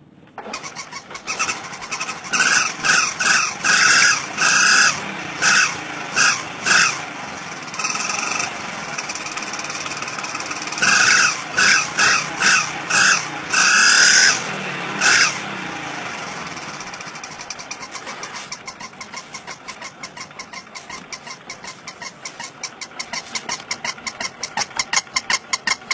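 Yezdi motorcycle's single-cylinder engine starting just after the opening, then revved in a series of short throttle blips for about fifteen seconds before settling to an idle with an even thumping beat.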